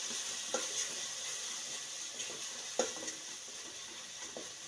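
Onion-tomato masala frying in oil in an aluminium pot with a steady sizzle. A slotted steel spoon stirs it, knocking and scraping against the pot a few times.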